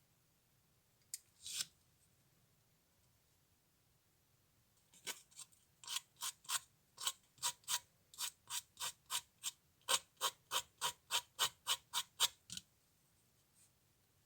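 A hand tool working the model in a run of about twenty short, sharp, evenly paced cutting or scraping strokes, about three a second, after a single click and a brief rasp.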